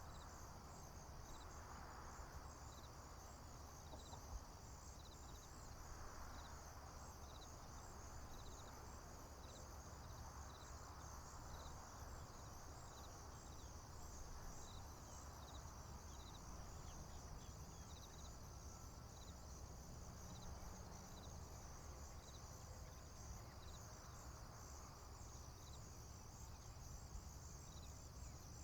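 Faint field-insect chorus of crickets: a dense, steady high trilling, with one chirp repeating about every three-quarters of a second. Under it are a low steady rumble and a soft hiss that swells and fades every few seconds.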